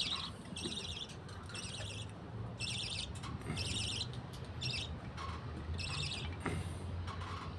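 Budgerigars calling in short raspy chirps, repeated roughly once a second, over a faint low hum.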